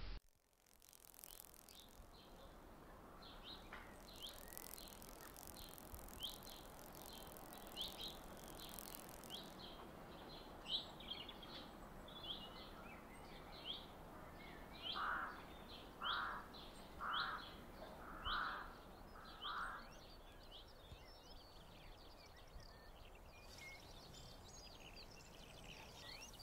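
Faint birdsong: one bird repeats a short high call about once a second, and partway through another gives five lower, evenly spaced calls.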